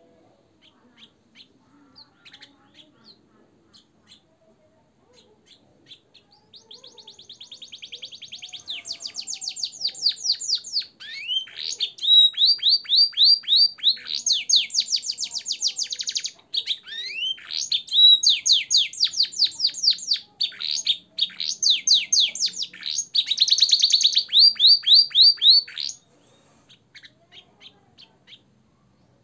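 Domestic canary singing a long song loaded with blackthroat and sanger-style phrases: fast trills and runs of quickly repeated notes, some sweeping up in pitch. It starts about six seconds in after a few faint chirps, builds in loudness, and stops abruptly a few seconds before the end, followed by scattered soft chirps.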